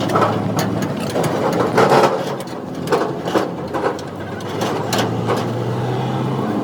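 Heavy truck's engine running steadily, with scattered knocks and clanks over it.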